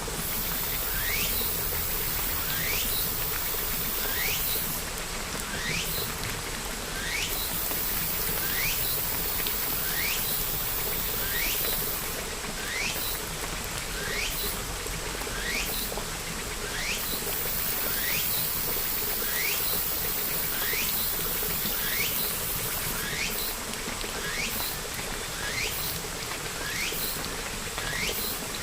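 Steady rain hiss with a short rising chirp repeated at an even pace, a little more than once a second.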